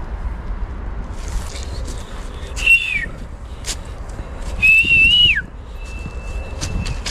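A person whistling to call a dog: a short whistle that falls in pitch about two and a half seconds in, then a longer, wavering whistle about four and a half seconds in that drops away at its end.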